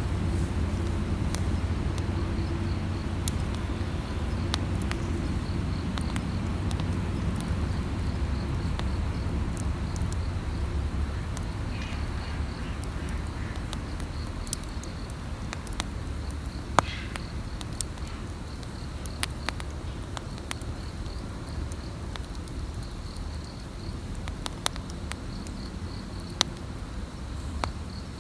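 Wood campfire burning with a steady low rumble and scattered sharp crackles and pops. An insect chirps faintly in a pulsing trill behind it.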